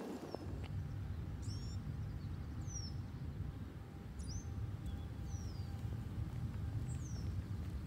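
A small bird giving about six short, high chirps, each sliding down in pitch, spaced a second or so apart, over a low steady rumble.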